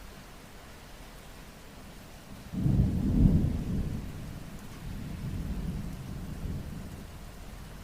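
Steady rain with a low rumble of thunder that breaks in suddenly about two and a half seconds in, swells again a couple of seconds later, then fades back under the rain.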